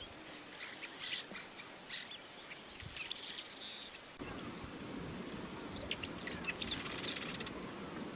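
Many wetland birds calling over one another with short chirps and whistles, and a rapid buzzy trill about seven seconds in. A steady low rush of background noise sets in about four seconds in.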